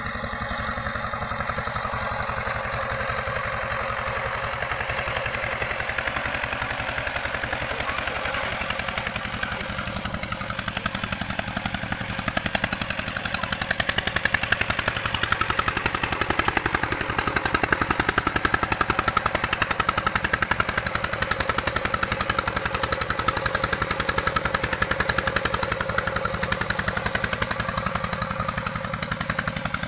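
Walking tractor's engine running steadily with a fast, even firing beat. It gets louder from about halfway through and eases back a little near the end.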